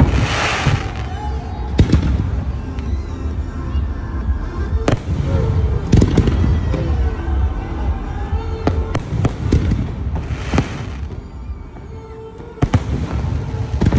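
Aerial fireworks bursting: sharp bangs every second or few, over a constant low rumble. Two longer crackling, hissing bursts come at the start and about ten and a half seconds in.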